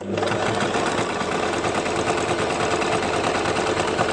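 Basic electric sewing machine running at steady speed, stitching fabric; it starts suddenly and keeps up a fast, even rattle of needle strokes.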